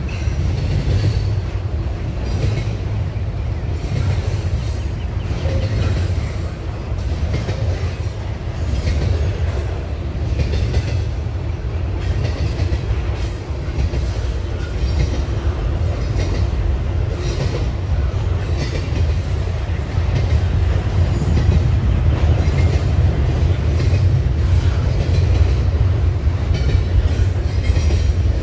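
Double-stack container freight train rolling past: a steady, heavy low rumble of the well cars, with wheels clicking over rail joints, getting a little louder about two-thirds of the way through.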